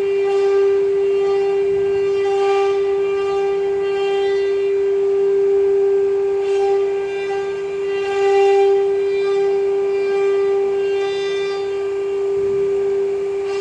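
ATC CNC router spindle running at high speed while it carves wood, a loud steady whine with overtones that swell and fade as the bit's cutting load changes.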